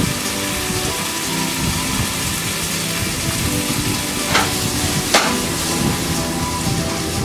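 Green beans and garlic frying in a nonstick pan with teriyaki sauce: a steady sizzle. Two short knocks come about four and five seconds in as the pan is handled on the electric coil burner.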